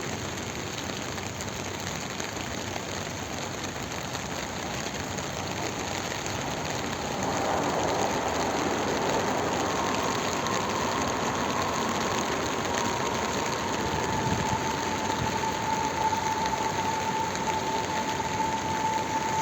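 Steady rain falling, its hiss growing louder about seven seconds in. A steady mid-pitched tone joins about ten seconds in, drops slightly in pitch and then holds.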